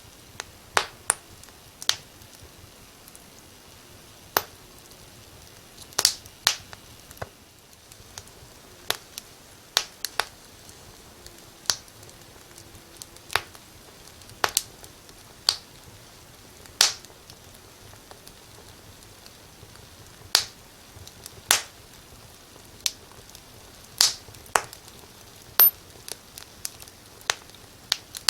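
Wood fire crackling in a fireplace: sharp, irregular pops about once a second over a faint steady hiss.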